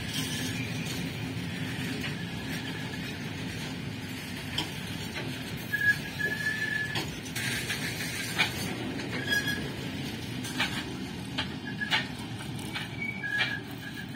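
Loaded BOXN HL open freight wagons rolling past on the track: a steady low rumble from the wheels, with brief high wheel squeals and sharp clanks that come more often in the second half.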